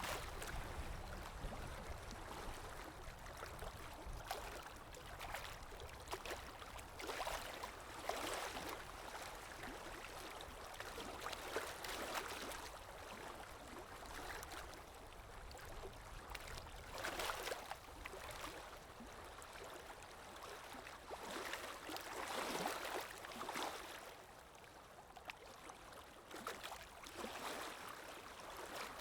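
River water lapping and rippling gently, rising and falling in irregular swells every few seconds.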